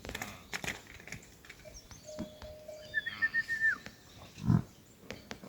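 Livestock in a shepherd's herd: scattered faint clicks, a short high chirping call about three seconds in, and a brief low animal call about four and a half seconds in.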